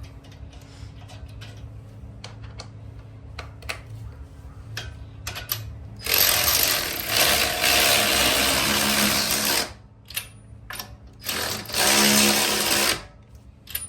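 Electric ratchet wrench running in two bursts: a long one about six seconds in, lasting over three seconds, and a shorter one near the end. Before it, only light clicks and scraping.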